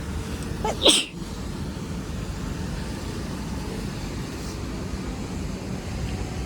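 Steady low outdoor rumble with wind on the microphone, and one short, loud sound rising sharply in pitch about a second in.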